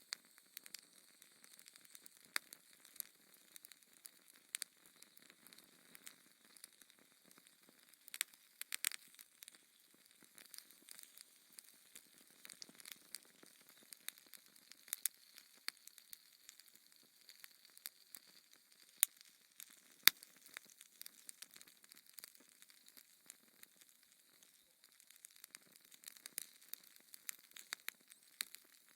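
Fireplace fire crackling: a faint hiss with frequent small sharp pops, the two loudest about two-thirds of the way through.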